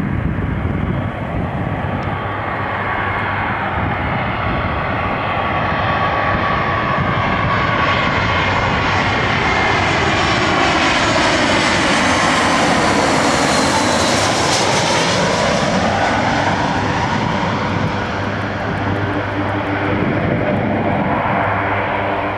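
Airbus A320 jet engines on landing approach, flying past overhead. The roar and its whining tones rise in pitch and get brighter as the plane closes in, peak about two-thirds of the way through, then slide down in pitch as it passes and moves away.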